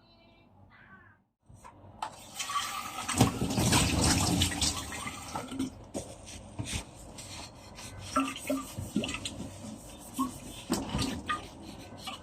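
Water running from a tap into a sink, starting about two seconds in, with frequent knocks and clinks of things being handled in it.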